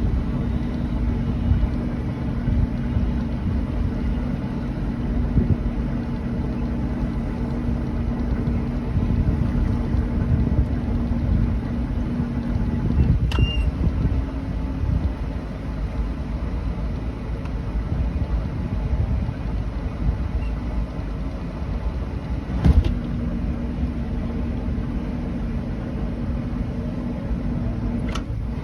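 Inboard boat engine running slow with a steady low rumble and hum, the hum dropping out for about ten seconds in the middle; three sharp knocks about a third of the way in, two-thirds of the way in and near the end.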